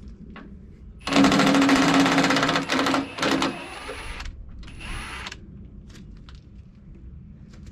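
Impact wrench hammering on a bolt: one long burst of about a second and a half, then two short bursts, then a fainter one.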